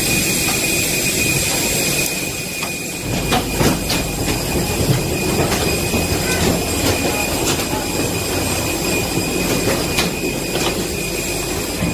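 Steady machinery noise with a continuous high-pitched whine over a low rumble, broken by a few sharp clicks and knocks.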